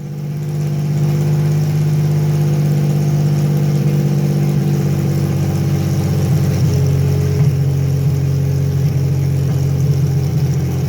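Carbureted Chevy 3100 V6 engine in a Lumina running steadily, its level building over the first second and then holding; the engine has a misfire from a bad coil pack.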